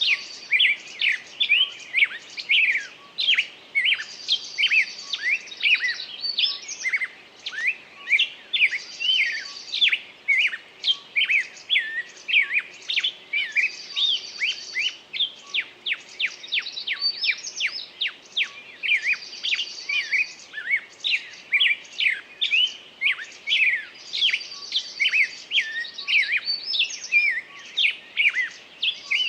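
A songbird singing continuously: rapid chirps and sweeping whistled notes, with a buzzy trill phrase coming back about every five seconds.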